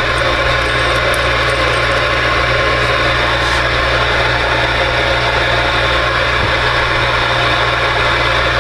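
CB radio static: a steady, loud hiss from the speaker, which switched on abruptly just before, over a constant low electrical hum.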